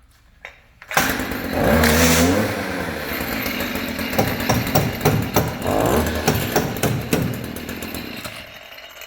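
Stihl string trimmer's engine starting about a second in and running for several seconds with uneven revs, then fading near the end. The cutting head does not turn, because the drive shaft inside the boom is broken.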